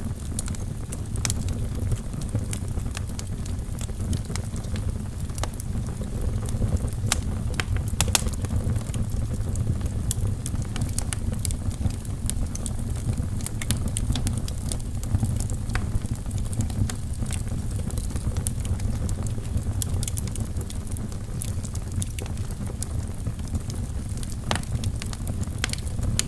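Wood fire burning in a fireplace: a steady low rumble of flames with frequent sharp crackles and pops from the logs, a few louder pops scattered through.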